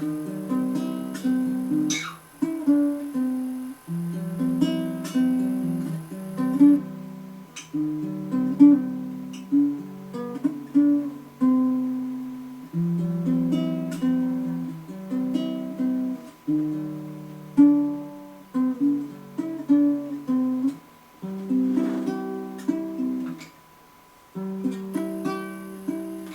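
Mini acoustic guitar played in chords: a slow progression of plucked and strummed chords, each ringing out and fading before the next, with a few short pauses.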